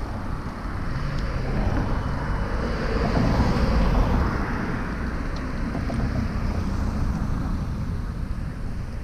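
Wind rumbling on the microphone of a moving bicycle over city street noise. The noise swells to its loudest about four seconds in, then eases.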